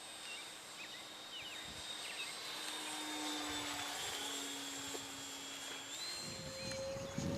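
Electric motor and propeller of a radio-controlled airplane in flight, a steady whine that steps up in pitch about six seconds in.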